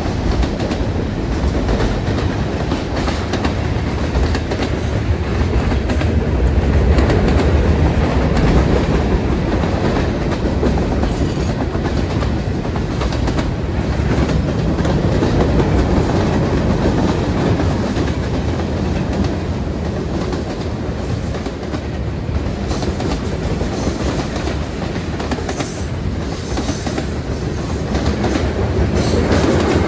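Train cars rolling past at speed, a steady loud rumble with the steel wheels clattering over the rail joints.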